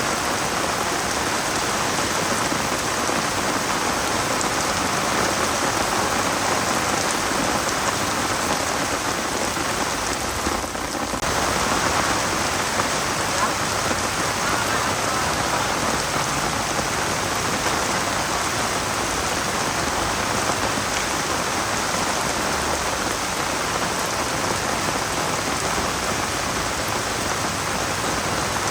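Steady rain falling and pattering on surfaces: a continuous even hiss that briefly dips about ten seconds in.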